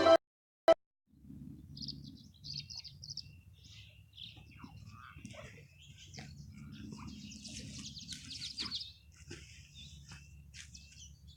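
Tree swallows chirping and twittering in short, scattered calls, busiest around the middle, over a low steady outdoor rumble.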